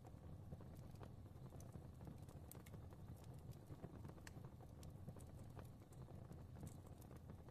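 Faint fire crackling: irregular small pops and snaps over a soft, steady low rumble.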